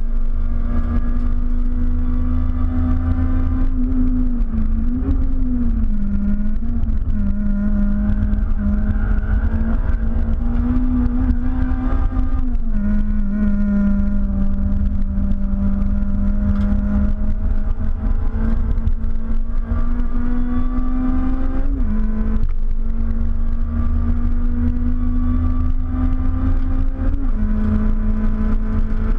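Honda Civic's supercharged K20 four-cylinder engine heard from inside the cabin, running hard at high revs. The pitch climbs steadily and then drops sharply about four times as the driver changes gear.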